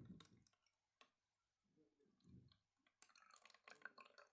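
Faint water dripping and trickling through a funnel into a collecting bottle, ending in a quick run of small clicky drips, with two soft low thumps earlier on.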